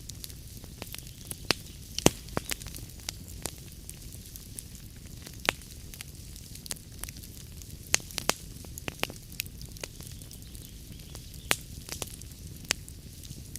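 Log fire crackling in a fireplace: irregular sharp pops and snaps over a steady low rumble, with the loudest pop about two seconds in.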